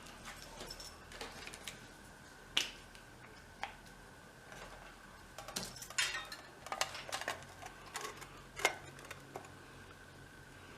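Clicks and light knocks of the bicycle lamp's small metal holder bracket being handled and fitted: one sharp click about two and a half seconds in, then a busier run of taps and clicks in the second half.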